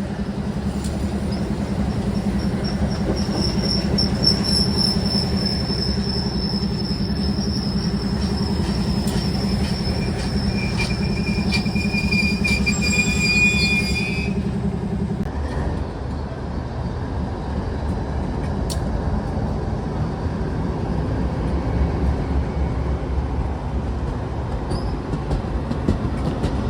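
Train rolling past, its wheels squealing on the rails with high, steady whines from about two seconds in until about halfway through, over a continuous low rumble. The squeal stops abruptly and the rumble eases off soon after.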